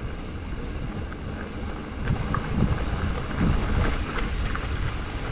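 Wind buffeting the microphone of a camera on a moving e-bike, with rumble from the ride and scattered small clicks and rattles.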